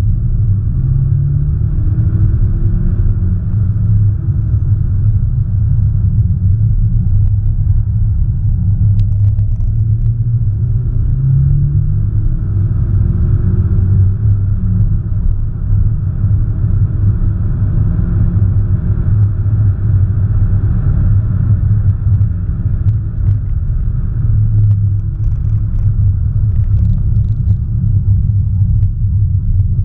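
Audi S1 Sportback's 2.0-litre turbocharged four-cylinder engine driving at speed on a race track, a heavy steady low rumble with engine and road noise, the engine's pitch rising a few times under acceleration.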